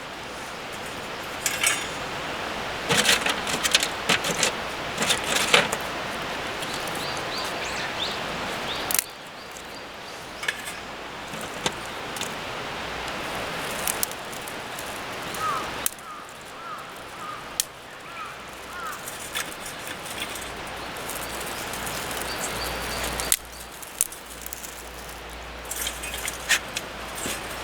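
Outdoor sounds: a steady rushing hiss with the clatter and clicks of things being handled, and a few short bird chirps. The background changes abruptly several times.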